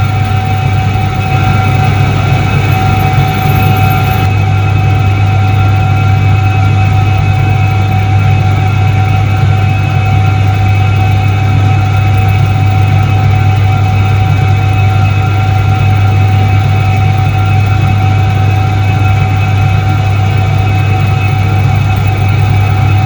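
1978 Soviet ISET-3 washing machine running, its motor giving a steady low hum with a fainter steady whine above it.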